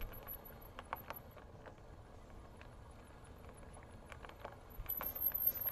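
Bicycle riding by: a faint low rumble with scattered irregular ticks and clicks from the bike, and wind gusting on the microphone near the end.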